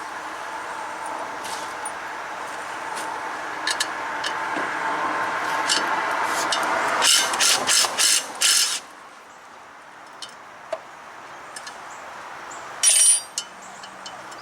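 Mechanical clicking and clanking of tools on metal, with a steady hum that builds slowly and cuts off suddenly about nine seconds in. A quick run of loud clicks comes near the end.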